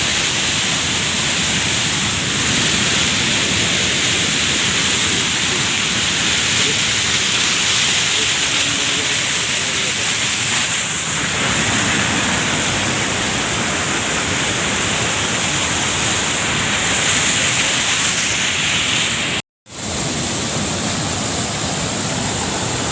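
Waterfall rushing: the loud, steady roar of falling water. It cuts out completely for a moment near the end.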